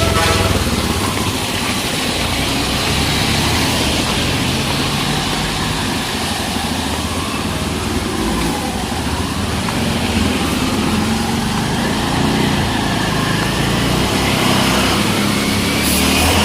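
Road traffic with small motor vehicle engines running close by, their hum rising and falling, over a steady hiss.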